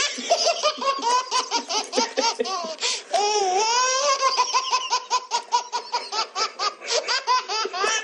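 A baby laughing hard, in rapid high-pitched peals, with a longer wavering squeal about three seconds in.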